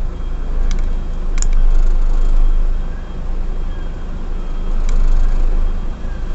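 Diesel engine of a B-double truck running as it reverses, a steady low rumble that swells and eases a couple of times. A few short sharp clicks cut through it, the loudest about a second and a half in.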